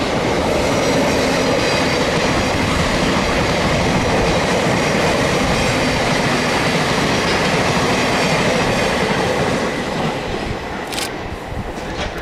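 Electric multiple unit passing close on the near tracks: a steady rush of wheel and rail noise with faint high whining tones, easing off near the end.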